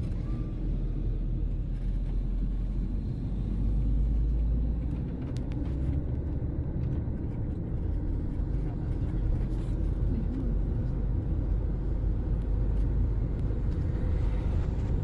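Steady low rumble of a car driving along, with road and engine noise.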